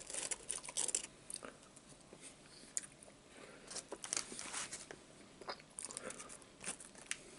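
A person biting and chewing french fries with soft, irregular mouth sounds, along with small crinkles from a paper fry bag.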